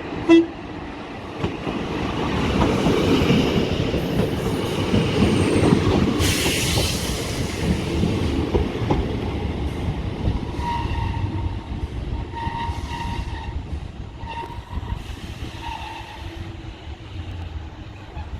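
Diesel multiple unit train running through the station: a short horn toot right at the start, then a rumble that builds, peaks mid-way and slowly fades, with a few brief high wheel squeals in the second half.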